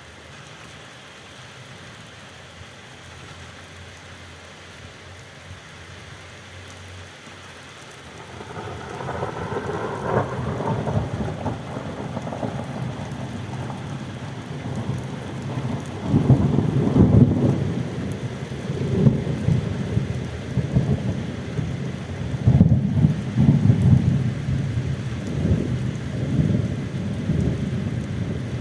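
Steady rain hiss. About eight seconds in, thunder breaks with a sharper peal, then rolls on as long, deep, bass rumbles that swell loudest about halfway through and again near the end.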